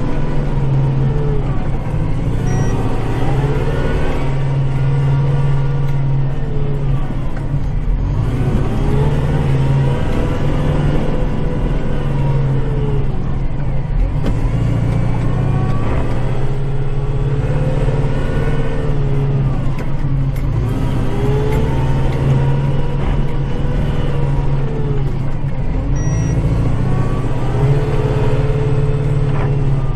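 Kubota diesel tractor engine running steadily under load, with a drivetrain whine that rises and falls in pitch about every five to six seconds as the tractor works back and forth clearing snow.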